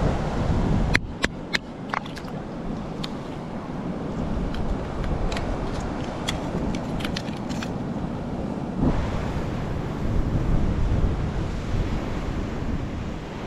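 Sea waves washing on a rocky shore, with wind on the microphone. A run of sharp clicks and taps comes through over the first half or so.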